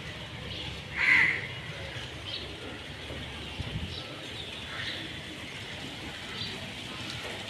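A bird calls, one loud harsh call about a second in, followed by a few fainter short calls.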